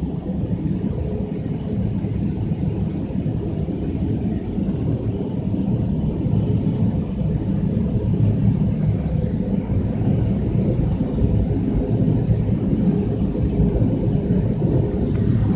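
Loud, steady rumble of automatic car wash machinery heard from inside the car, building a little over the first few seconds.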